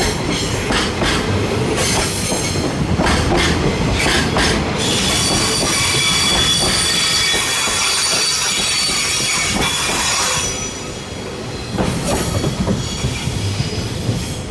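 Container flatcars of a freight train rolling past, wheels clattering over rail joints. About five seconds in, a high, steady wheel squeal begins. It stops about ten seconds in, leaving a lower rumble as the train moves away.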